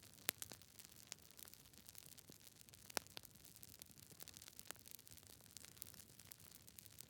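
Campfire crackling: irregular sharp pops and snaps of burning wood over a faint steady hiss, with louder pops shortly after the start and about three seconds in.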